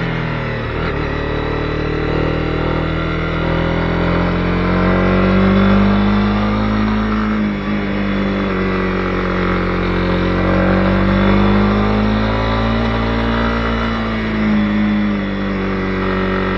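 Honda CB250R's single-cylinder engine running under way. Its pitch rises and falls smoothly as the revs change, climbing twice to higher revs.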